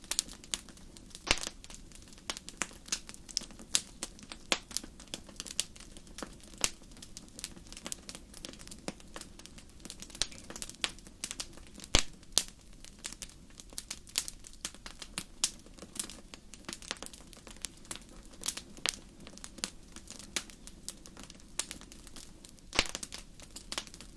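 Wood fire crackling in a fireplace: irregular sharp pops and snaps over a steady low hiss, with a few louder pops about a second in, around the middle and near the end.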